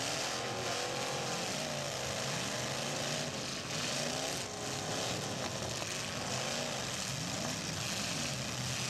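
Several demolition derby cars' engines revving and running at once, their pitches rising and falling as the cars push and ram in the pack, over a steady noisy wash.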